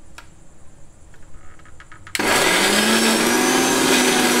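Mixer grinder with its small jar switched on about halfway through: the motor whine climbs briefly as it spins up, then runs steadily, grinding spice powders with onion, tomato, green chilli and coriander leaves and no water added. A few faint clicks come before it starts.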